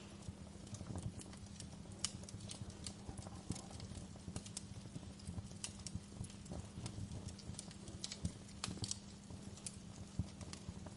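Fire crackling: irregular sharp pops and snaps, several a second, over a steady low rumble of flame.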